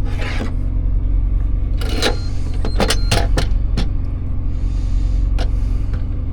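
Steady low drone of an idling diesel on a semi truck, with a series of sharp clicks and knocks about two to four seconds in and another near the end.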